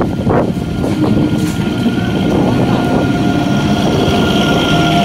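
EMU local train running alongside the platform: a steady rumble, with a steady whine of a few tones from its electrical equipment joining about two seconds in.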